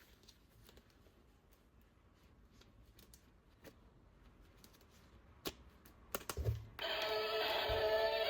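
Faint clicks and light tapping of hands handling plastic toys and packaging, with a few sharper clicks and low knocks around five to six and a half seconds in. Music starts loudly near the end.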